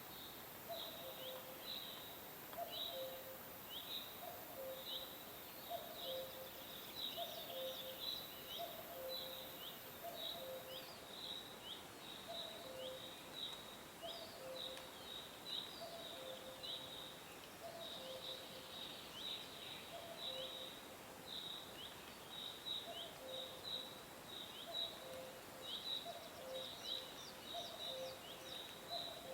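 Songbirds chirping: a steady run of short, high chirps, each dropping quickly in pitch, about two a second. Under them a low two-note call repeats about every second and a half.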